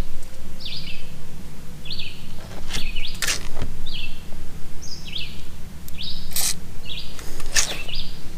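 A bird chirping repeatedly, one short call every second or less, over a steady low hum. A few brief bursts of hiss or scraping break in about three seconds in and again near the end.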